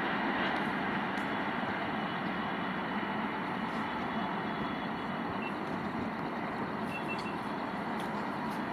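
Gatimaan Express, hauled by a WAP-5 electric locomotive, receding after passing at 160 km/h: a steady wheel-and-rail rush that slowly fades away.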